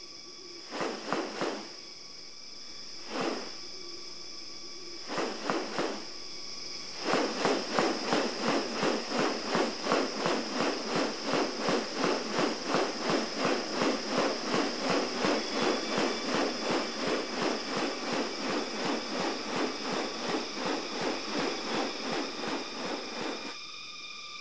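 Rainforest ambience: a steady high insect drone, with a few separate sharp calls in the first six seconds. From about seven seconds, a fast, even pulsing at about three a second comes in and runs until just before the end.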